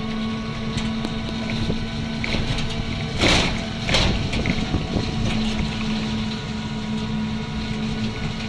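A moving vehicle: a steady low rumble with a constant hum, and two brief loud whooshes a little over three seconds in.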